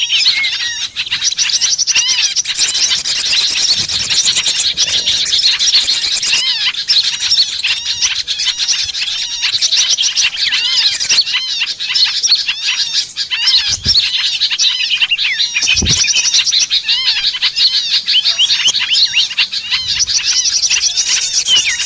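Dense chorus of many small birds chirping and trilling rapidly and without pause, high-pitched and overlapping: a small-bird lure recording meant to draw small birds in. Two brief low thuds come in the second half.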